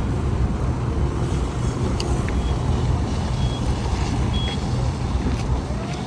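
A heavy vehicle engine running steadily at close range, with a few short high-pitched beeps about a second apart near the middle, like a backup alarm.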